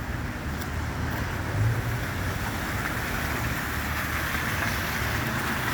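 Car driving on a wet, icy road, heard from inside the cabin: a steady low engine and road rumble with tyre hiss.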